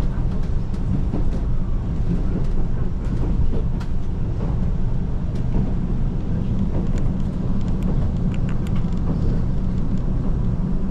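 Steady low rumble inside the cabin of a KiHa 185 series diesel railcar, with scattered light clicks and rattles, most of them between about 7 and 9 seconds in.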